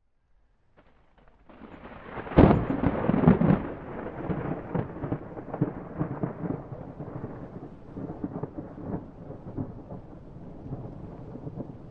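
A thunderclap: after a moment of near silence and a faint crackle, a sharp crack about two and a half seconds in, then a long rumble with scattered crackles that slowly fades.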